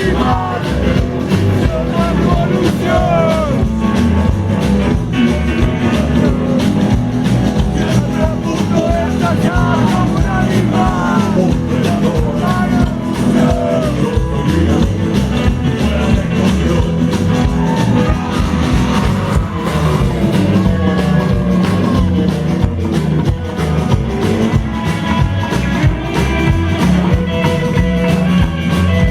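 Rock music playing loud and steady: a full band with a melodic line that bends in pitch through the first half, and no lyrics heard.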